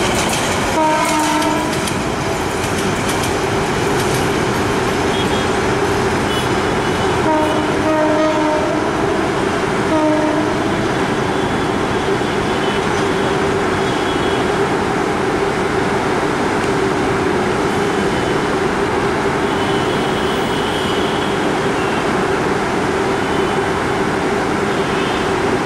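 Small four-coach passenger train running past and away on the track with a steady rumble and some wheel clatter. Its horn gives short blasts about a second in and again around eight and ten seconds in.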